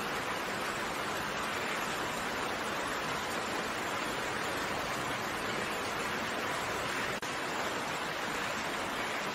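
Steady rain falling, an even hiss with no distinct drops standing out; a momentary dip in the sound about seven seconds in.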